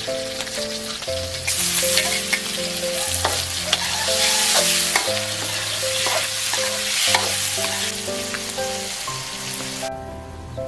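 Chicken and pumpkin shoots sizzling as they are stir-fried in a pan, with a spatula clicking and scraping against it. The sizzling drops away near the end, and background music plays throughout.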